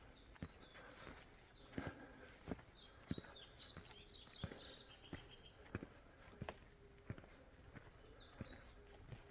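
Footsteps of a person walking at a steady pace, about three steps every two seconds, with small birds chirping in a quick flurry in the middle and briefly again near the end.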